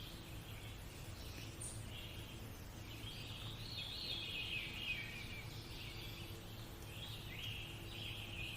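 Faint birdsong: small birds chirping and twittering again and again, over a steady low hum.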